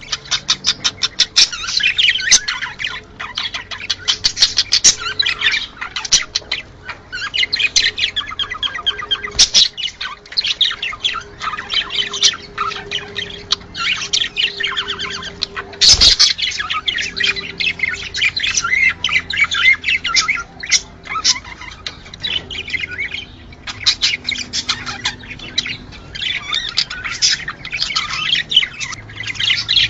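A flock of budgerigars chattering continuously, with rapid warbling chirps and squawks, the kind of chatter played to budgies to stimulate breeding. A sharp click about halfway through.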